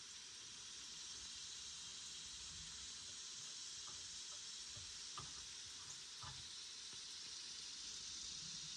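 Faint steady hiss, with a few light clicks about halfway through.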